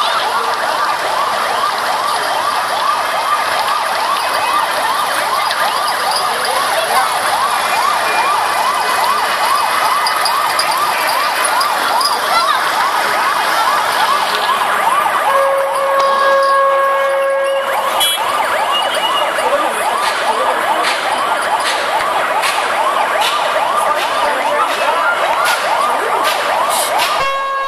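Fire engine siren sounding a fast warbling wail. A steady single tone sounds alongside it for about two seconds past the middle.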